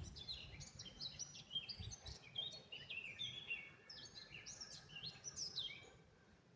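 Several small birds singing and chirping at once in quick, overlapping notes that thin out near the end, over a faint low rumble with a few soft low thuds.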